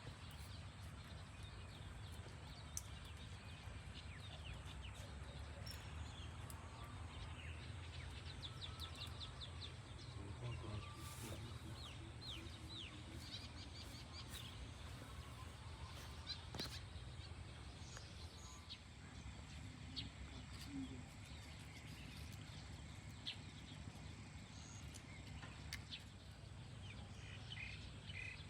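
Small birds chirping on and off, with a quick flurry of chirps about a third of the way in, over a low steady rumble of outdoor background noise.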